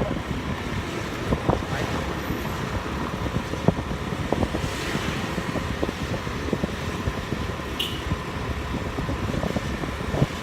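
Steady road and traffic noise heard from a moving motorbike, with wind buffeting the microphone in frequent short gusts.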